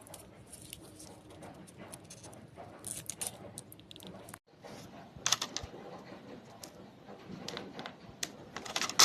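Light clicks, taps and rattles of small hard objects being handled, with sharper clicks about five seconds in and again near the end.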